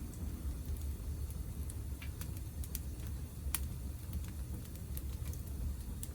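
Wood fire burning in a Picogrill fire pit: irregular sharp crackles and pops over a steady low rumble, the loudest pop about three and a half seconds in.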